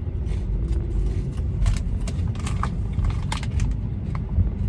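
Road noise inside a moving car's cabin: a steady low rumble of tyres and engine, with a scattering of light clicks and rattles in the middle of the stretch.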